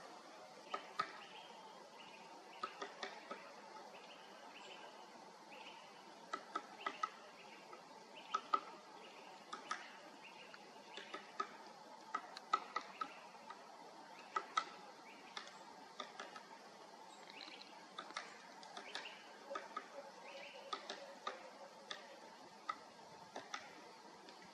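Great spotted woodpecker pecking at wood: irregular sharp taps, sometimes in quick clusters, with short high chirps of other birds in the background.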